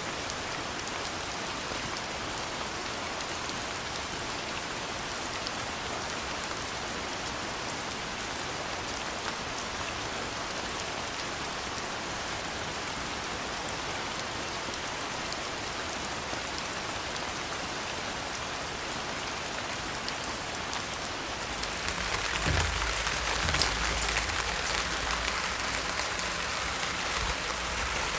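Steady rain falling. About three quarters of the way through it changes abruptly to louder, fuller rain with a deeper patter and a few sharp, heavier drop hits.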